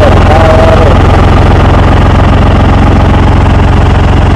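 Ford 3000 tractor engine running steadily just after being started cold, having sat unused for a few days. A brief wavering higher tone sits over it in the first second.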